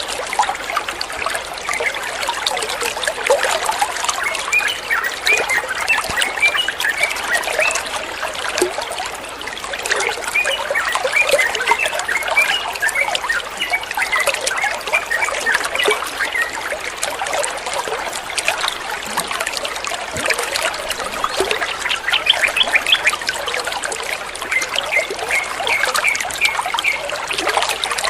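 Running water trickling and babbling steadily, with clusters of short, bright plinks through much of it.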